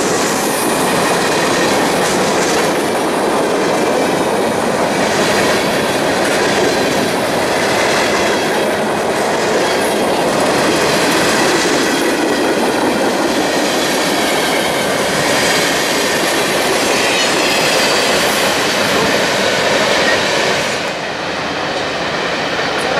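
Freight cars of a train rolling past close by: a steady rumble and clatter of steel wheels over the rail joints. About two seconds before the end the sound drops and thins as the caboose at the train's tail moves away.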